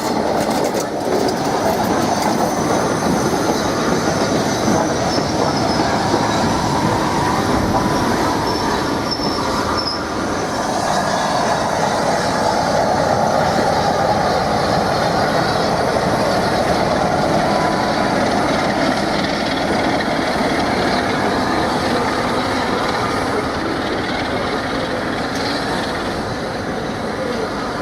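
Train rolling through a station, with steel wheels squealing against the rails and the clack of wheels over rail joints, steady throughout.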